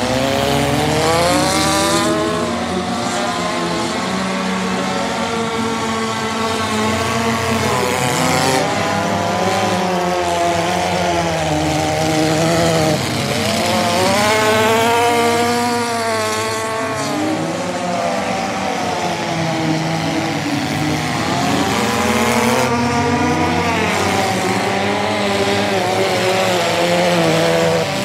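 Several derby cars' engines racing hard on a dirt oval, overlapping, their pitch climbing and dropping again and again as the drivers accelerate and ease off.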